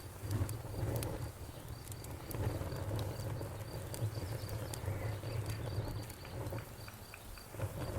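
Campfire crackling, with scattered sharp pops over a low steady rumble. An even, high chirping of insects repeats throughout.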